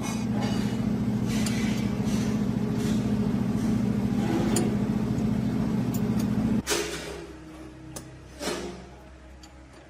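A machine's motor running steadily with a low hum, stopping abruptly about six and a half seconds in, followed by a few sharp knocks.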